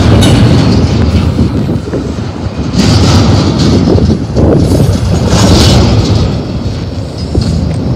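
Double-stack intermodal well cars of a freight train rolling past close by with a loud, steady rumble of wheels on rail, with a couple of brief hissing bursts. The last car passes near the end and the sound starts to ease as the train draws away.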